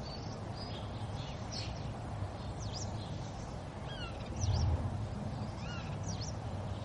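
Wild birds calling, a scatter of short chirps and sweeping whistled notes, over a steady low rumble.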